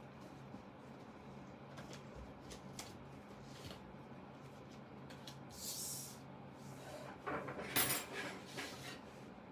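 Small clicks and clinks of hand tools and the cover being handled during disassembly. A short scraping rustle comes about halfway, then a cluster of louder clicks and clinks near the end, over a steady low hum.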